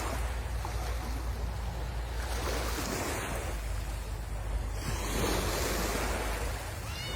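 Sea waves washing onto the shore, the surf swelling twice, with wind rumbling on the microphone.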